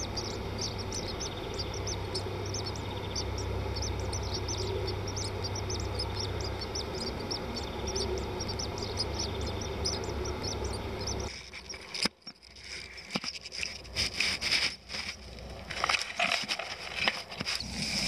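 Small birds chirping, short high chirps repeating several times a second over a steady low hum. About eleven seconds in the hum cuts off and irregular clicks and rustling take over, with some chirps still heard.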